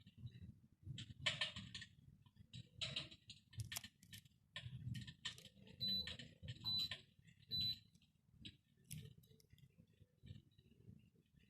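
Clicks and light handling rustles, with three short high beeps about a second apart midway, typical of the button beeps of a RealFlame Joker 62 electric fireplace's controls as settings are changed.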